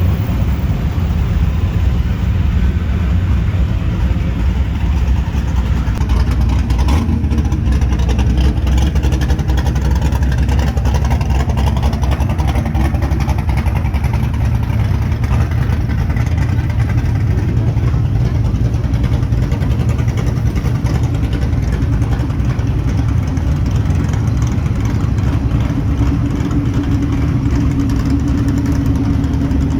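Classic car engine idling steadily with a low drone; a higher, steadier note joins near the end.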